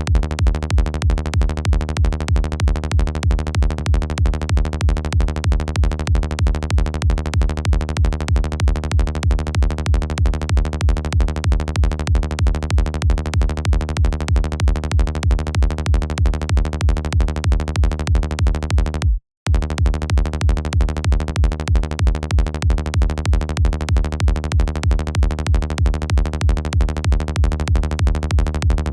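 Electronic kick drum synthesized in Kick 2 repeating at a steady dance tempo over a sustained Sylenth synth bass, looping. The playback cuts out for an instant about 19 seconds in and starts again.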